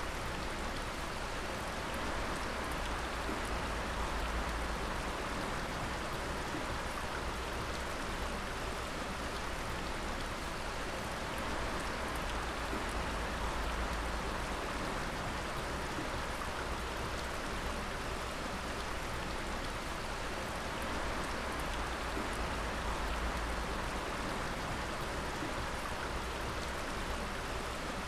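Water dripping steadily, many drops falling and splashing at once in a dense, even patter.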